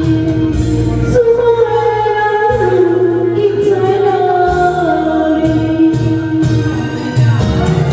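Karaoke singing: a voice holding long, slightly wavering notes over a pop backing track with bass and a drum beat.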